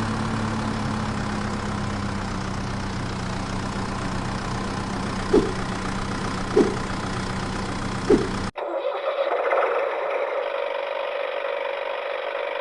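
Vehicle engine running steadily with a low hum, with three short higher blips about a second apart in the middle. About two-thirds of the way through it cuts abruptly to a different, thinner steady engine drone.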